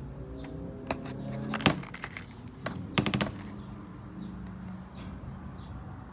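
Hard little clicks and clacks of rough opal pieces being handled and set down against each other, in clusters about a second and a half in and again about three seconds in, over a steady low hum.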